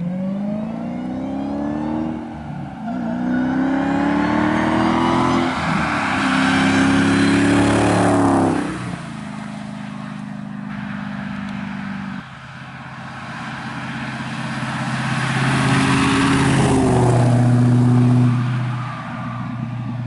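2015 Dodge Challenger Hellcat's supercharged V8 through a 3-inch dual stainless-steel aftermarket exhaust, accelerating hard with the revs climbing and dropping at three quick upshifts. It then runs at a steady speed, builds revs slowly again for several seconds and backs off near the end.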